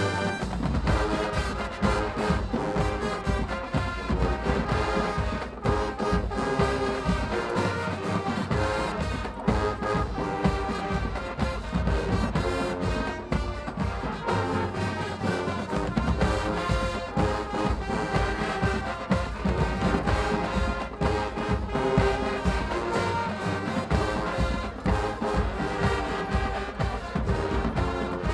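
High school marching band playing: brass with trombones and trumpets over a steady, driving drum beat.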